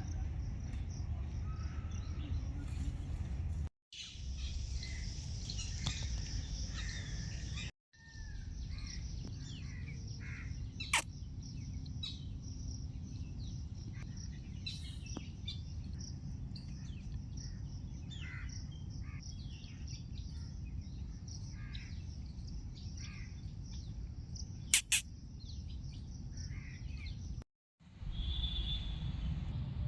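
Several wild birds chirping and calling over a steady low rumble of outdoor noise, broken by brief dropouts where the recording is cut. A sharp click about a third of the way through and a louder double click later on.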